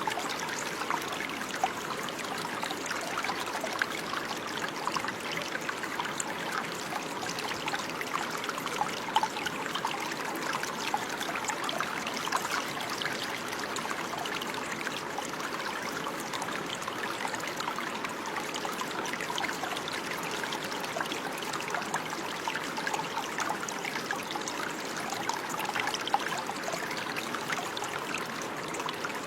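Running water flowing and trickling steadily, a continuous rush dense with tiny splashes and no change in level.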